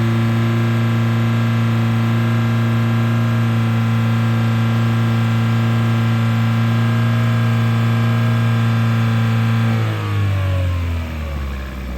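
2012 Chevy Sonic's 1.8 L four-cylinder engine held at steady raised revs during a run test. About ten seconds in, the throttle is let off and the revs fall away toward idle.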